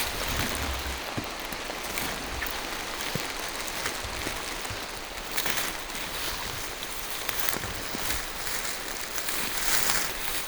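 Steady rain falling on the forest canopy: an even hiss with scattered sharper drops striking leaves, swelling a little about halfway through and again near the end.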